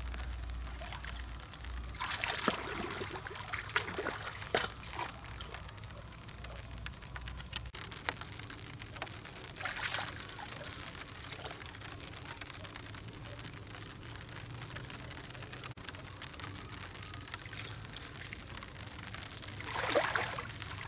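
Water trickling and pouring, with a few splashes about two seconds in, around the middle and near the end.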